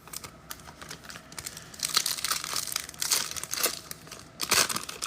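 Foil wrapper of a trading-card pack being torn open and crinkled by hand, in irregular crackling bursts that are loudest about two, three and four and a half seconds in.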